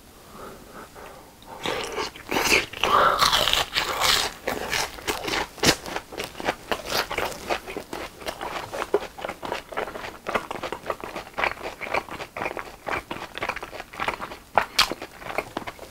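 Close-miked eating of a BHC fried cheese ball: the crisp fried crust crunches loudly in quick clicks starting about two seconds in, then settles into steady closed-mouth chewing.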